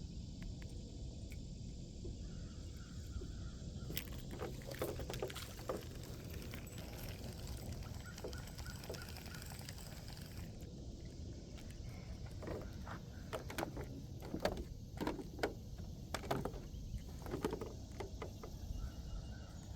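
Scattered short, harsh bird calls in clusters over a steady low outdoor rumble.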